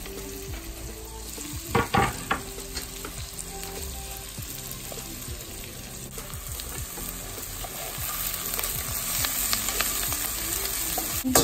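Chopped onions sizzling in hot oil in a cast iron Dutch oven, stirred with a wooden spoon. A few sharp knocks about two seconds in.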